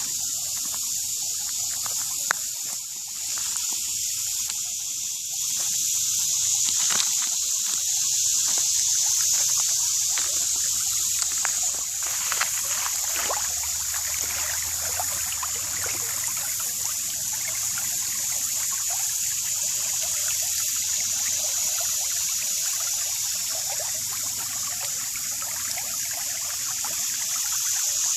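Creek water running with a steady hiss, with a few brief faint crackles around the middle.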